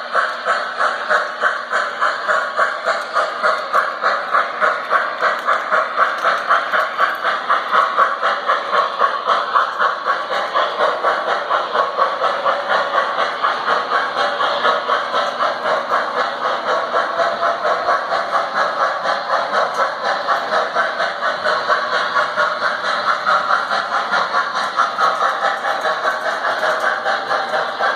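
Model train running on the layout's track: a steady, even rhythmic clatter of several beats a second that does not let up.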